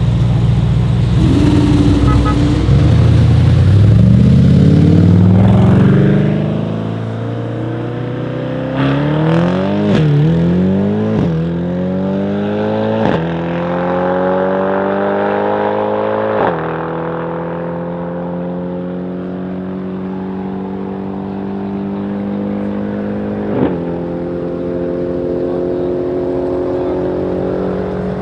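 Tuned Mercedes-AMG E63 S 4Matic+ twin-turbo V8 at full throttle in a drag race, the engine note rising steeply and then dropping back at about five quick upshifts. After the shifts the engine holds an almost steady note and fades as the car pulls away, with one sharp pop near the end.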